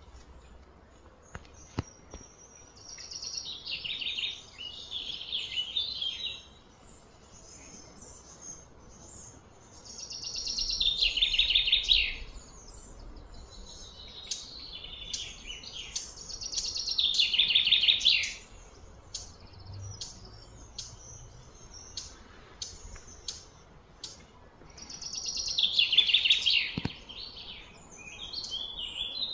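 A bird singing: four loud trilled phrases, each two to three seconds long and falling in pitch, repeated every six to eight seconds, with fainter chirps in between.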